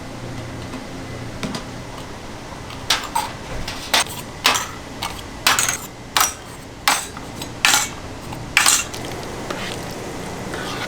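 Kitchen utensils and pans clattering: about ten sharp, ringing knocks over some six seconds, over a steady low hum.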